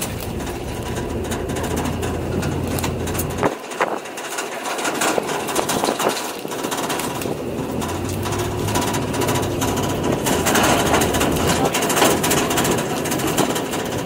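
Open-air 4x4 tour truck driving off-road: the engine's low hum runs under a dense clatter of knocks and rattles as the truck jolts over rough ground. The engine hum drops away for about a second, four seconds in, then returns.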